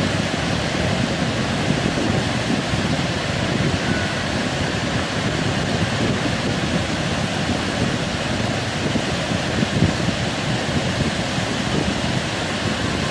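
Heavy ocean surf, a steady roar of breaking waves, with wind buffeting the microphone.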